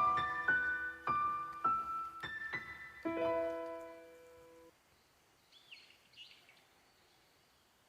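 Piano music: a short phrase of struck notes that rings out and fades away over the first five seconds. Then, in the quiet, a bird calls a couple of short chirps.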